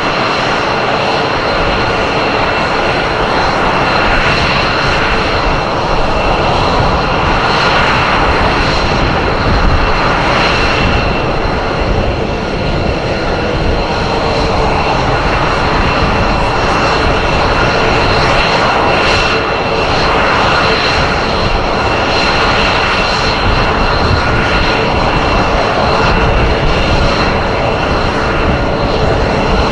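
Jet fighter engines running loud and continuous, with steady high whining tones over a broad rush of noise, typical of the twin engines of an F-22 Raptor during a flying display.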